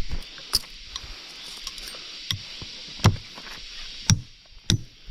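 Repeated chopping strokes of a blade into wood, each a sharp hit with a low thud, settling into a steady rhythm of about one and a half strokes a second in the second half, over a steady high hiss.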